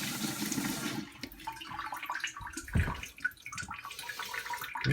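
Water rushing into a toilet tank as the supply is turned back on: a loud hiss that drops off about a second in, leaving quieter running water with a couple of knocks.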